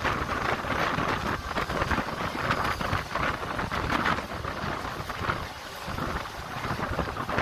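Mumbai suburban local train running between stations, heard from inside a coach: a steady rushing noise with constant rattling and clatter, and wind on the microphone.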